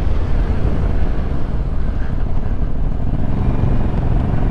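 Motorcycle engine running under heavy wind noise on the rider's microphone as the bike gets under way. Near the end the engine's pitched note comes through more clearly.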